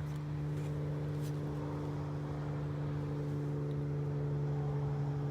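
Small two-stroke engine running steadily with an even, unchanging hum.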